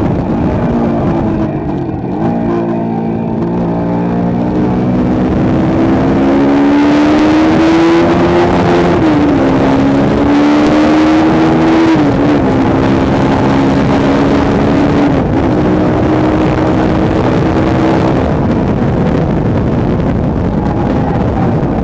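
Motorcycle engine running hard at track speed, its pitch climbing steadily and dropping sharply at gear changes about nine, twelve and fifteen seconds in, over heavy wind rush.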